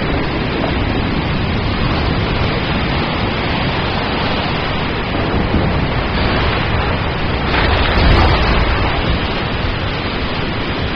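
Steady rain, a dense even hiss, with a louder burst of thunder about eight seconds in.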